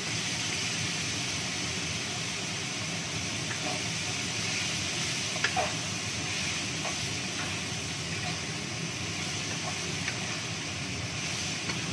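Shredded cabbage dropped into hot oil in a non-stick frying pan, sizzling steadily, with the sizzle starting suddenly as it goes in. A wooden spatula stirs and scrapes it, with a few light clicks about halfway through.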